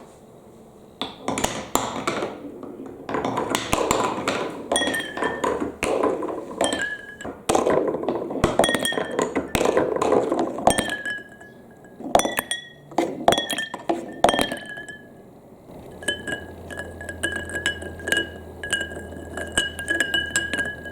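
Marbles rolling and clattering down a plastic block marble-run course: a dense run of clicks and rattles with many short, high clinks. Near the end the clinks come in a quick, regular series.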